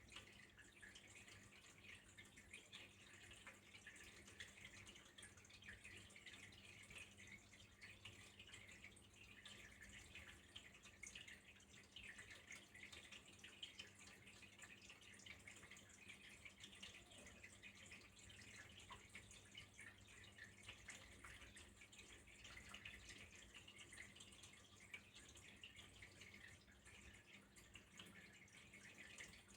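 Faint, steady trickle of running water, even and unbroken, with a low steady hum beneath it.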